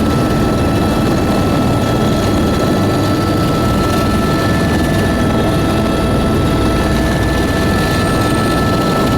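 Loud, steady drone of aircraft engines and rotor or propeller in flight, heard from inside the cabin, with a few steady whining tones over the rumble.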